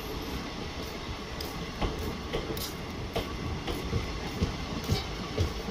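Passenger coaches of the Bhubaneswar Jan Shatabdi Express rolling past: a steady low rumble of the train with irregular sharp wheel knocks.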